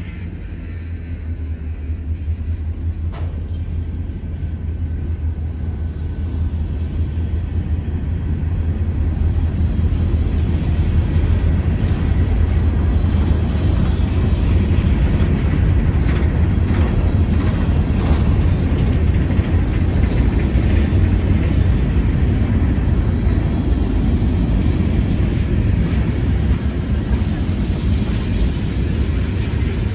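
Freight cars of a Florida East Coast Railway train rolling past close by: a steady low rumble of steel wheels on the rail that builds over the first ten seconds and then holds. The cars are open hoppers and gondolas loaded with crushed stone.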